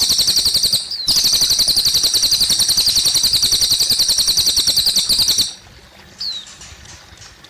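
Cililin bird singing a loud, very rapid, high-pitched trill of many notes a second, with a short pause about a second in, that stops about five and a half seconds in. After it comes a much quieter stretch with a single short falling note.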